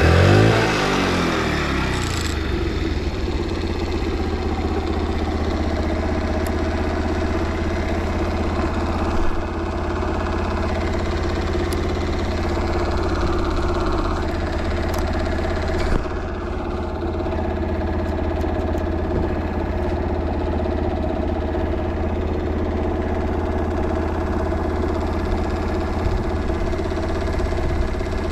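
Honda Motra's small single-cylinder four-stroke engine revved briefly on the throttle, then settling about two seconds in to a steady idle. It runs quietly with no abnormal noises.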